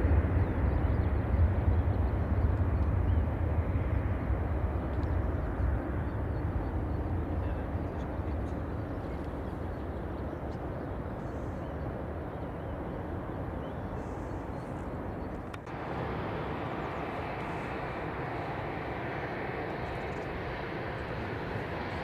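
Jet airliner engine noise fading away as the aircraft moves off. A loud low rumble dies down over the first several seconds and gives way to a steady, distant rumbling hiss.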